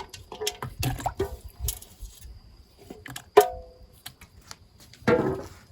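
Ingredients being dropped and handled in a pot of water for chicken baeksuk, giving small splashes and knocks. One sharp clink about three and a half seconds in rings briefly, and there is another clatter near the end.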